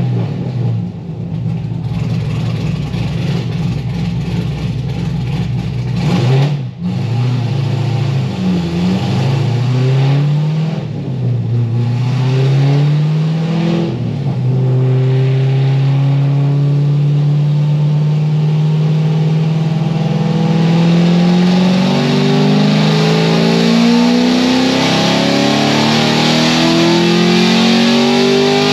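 Straight-piped LS7 V8 of a cammed C6 Corvette Z06 under test on a chassis dyno. It idles for a few seconds, then revs up in several short rising sweeps, and from about halfway makes one long full-throttle pull with the pitch climbing steadily to the end.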